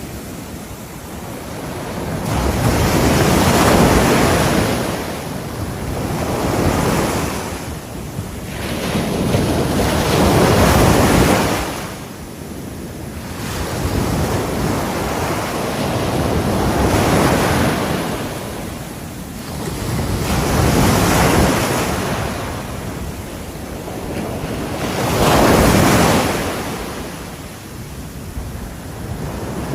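Ocean waves breaking on the shore, the surf swelling and falling back about every four to five seconds, with wind noise on the microphone.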